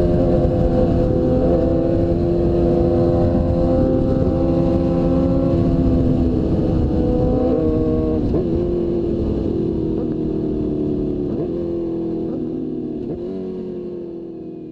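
Suzuki GSX-R1000 inline-four engine running under way, its pitch slowly falling as the bike eases off, over steady wind rumble. A few faint clicks come in the second half, and the sound fades out near the end.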